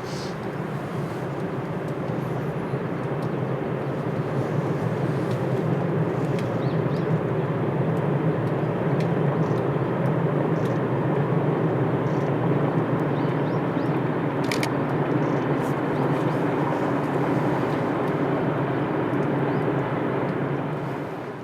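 A train running, a steady noise that builds over the first several seconds and then holds level, with a few faint clicks.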